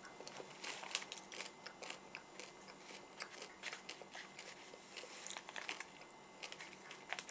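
Faint, irregular crunching as a Cadbury Mini Egg is chewed, its hard candy shell cracking between the teeth.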